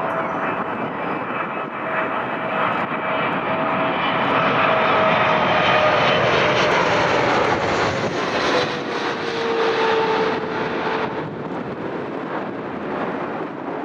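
Boeing 777-300ER's GE90 jet engines as the airliner comes in to land, a loud rushing roar that swells and then eases. A whine in it falls steadily in pitch as the aircraft passes.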